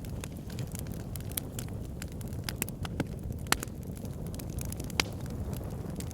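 Backyard fire pit burning with a steady low rush of flame and frequent sharp crackles and pops, two louder pops about three and a half and five seconds in.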